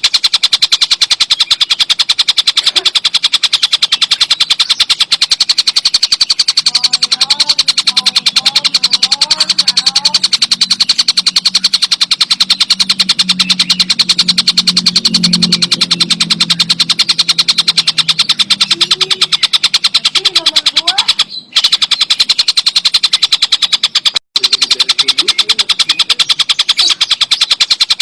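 Tengkek buto kingfisher calling in a rapid, unbroken rattling chatter of fast repeated notes. The sound cuts out briefly twice near the end.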